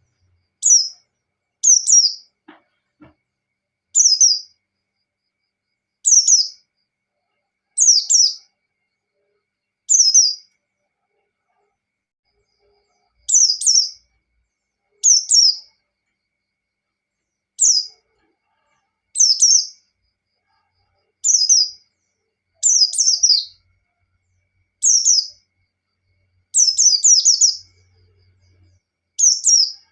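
Pleci (white-eye) calling: short, high chirps of about half a second, each falling in pitch, repeated every one to two seconds, some in quick pairs.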